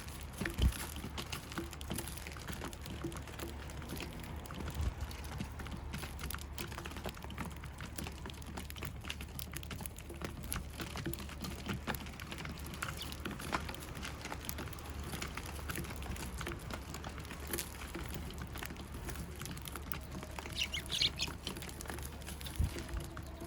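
Eurasian tree sparrows: a quick run of high chirps near the end, with scattered light clicks and taps throughout.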